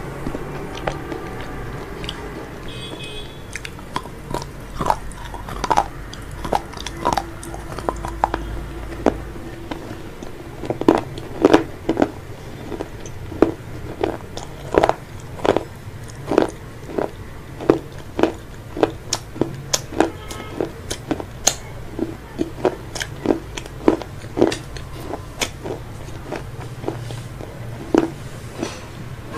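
Close-miked eating of crispy fried food from a KFC meal: a series of sharp, irregular crunches with chewing in between. They are sparse at first and come thick and fast from about ten seconds in.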